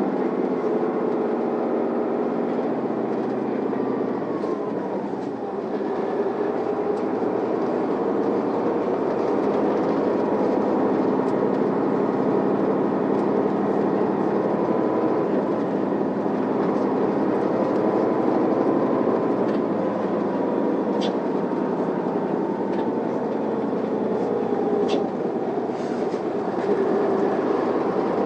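Isuzu Elga city bus's diesel engine and drivetrain running as the bus drives, heard from inside the passenger cabin as a steady hum with whining tones. A whine slides down in pitch about five seconds in, and a couple of short sharp ticks come near the end.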